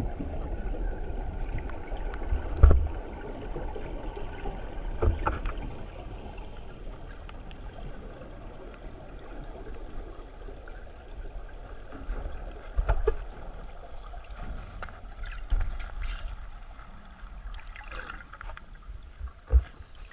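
Muffled water noise with a few dull low thumps, as heard by a camera in a waterproof housing moving through water.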